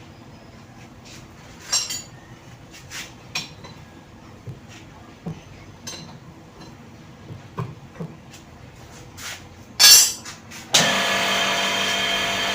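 Metal tools and parts clinking and knocking now and then at a lathe, with one loud knock about ten seconds in. Just after it, a loud steady hum with a fixed pitch starts suddenly.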